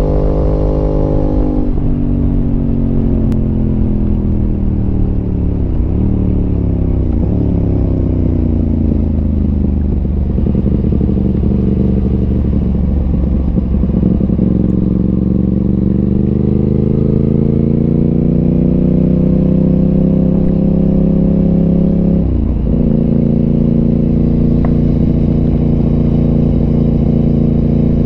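Aprilia RS 660's parallel-twin engine through an SC Project exhaust, heard while riding. The revs fall over the first several seconds with two brief breaks, then climb steadily as the bike accelerates, with a gear change about 22 seconds in, after which the engine holds a steady pitch.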